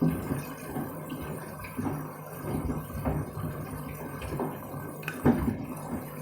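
Candy front-loading washing machine on its rinse cycle: the drum turns with a steady low motor hum, with water sloshing and shoes knocking irregularly against the drum. The loudest knock comes a little after five seconds in.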